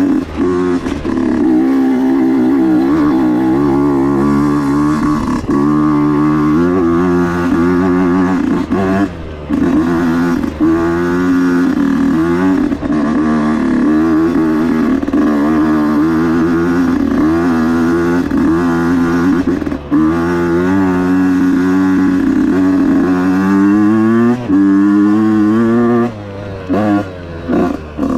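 Husqvarna dirt bike engine running under way on a trail, its pitch rising and falling constantly with the throttle, with a few brief drops where the throttle is shut, about a third and two-thirds of the way in and again near the end.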